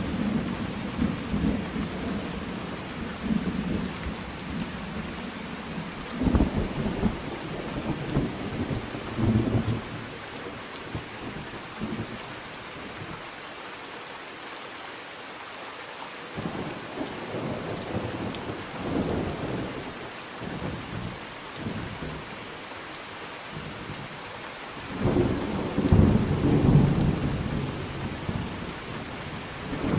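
Steady rain with rolling thunder. Low rumbles fade away over the first few seconds, return a few seconds later, ease off through the middle, and come back strongest near the end.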